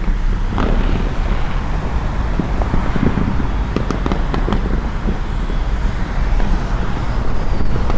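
Distant fireworks popping and crackling over a steady low rumble, with a cluster of sharp pops around the middle.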